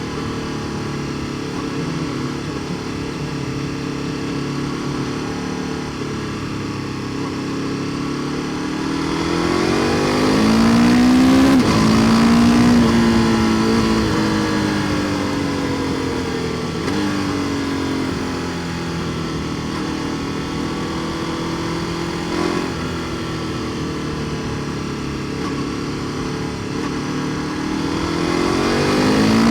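KTM 1290 Super Duke R Evo's V-twin engine through an Akrapovic exhaust, ridden on the road: a steady note, then accelerating about a third of the way in with a sudden drop in pitch at a gear change, easing off to a steady cruise, and picking up revs again near the end.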